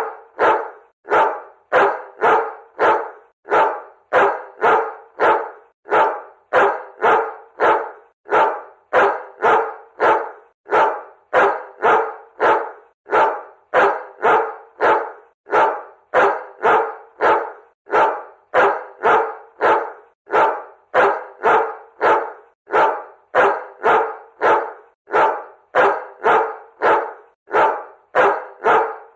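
A dog barking over and over in a steady rhythm, about two barks a second, without a break.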